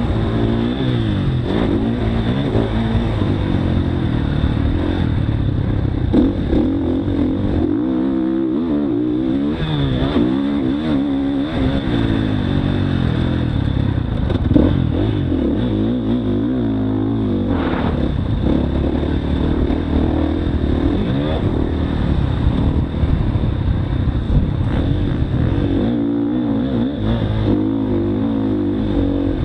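Motocross dirt bike engine revving up and down repeatedly as the throttle opens and closes, with a sharp knock about halfway through.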